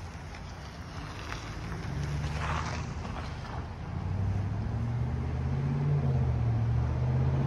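Freight train of open hopper cars at a grade crossing, with a low hum that grows louder over the second half.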